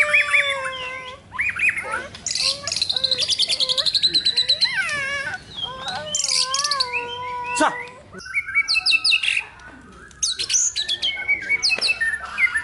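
Juata songbird, just out of its molt, singing a varied song of whistled pitch glides and rapid trills, with short pauses about eight and ten seconds in.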